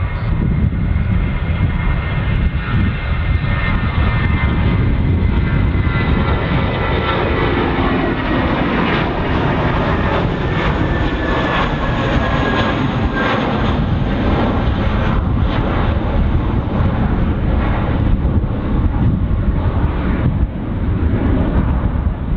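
Airliner jet engines passing close by: a loud, steady rumble with a whine that drops slightly in pitch midway through as the aircraft goes past.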